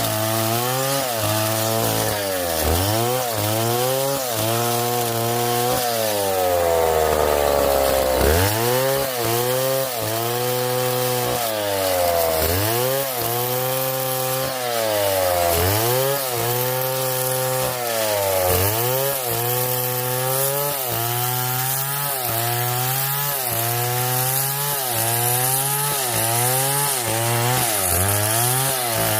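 Chainsaw cutting through wood. The engine bogs down under load and picks back up every second or two, and it is dragged down hard once for a couple of seconds before revving up again.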